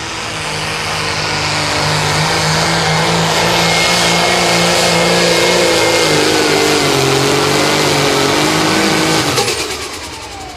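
John Deere 7800 pulling tractor's turbocharged diesel engine at full throttle under sled load, with a thin high whine over the engine note. The engine pitch sags as the load builds, then the sound drops away suddenly about nine seconds in as the pull ends.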